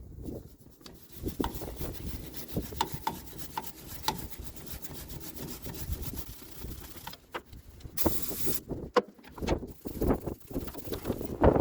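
Wire brush scrubbing and rasping against metal in short irregular strokes, cleaning a brake-fluid leak spot on a brake master cylinder. A brief hiss comes about eight seconds in, and a sharp knock near the end.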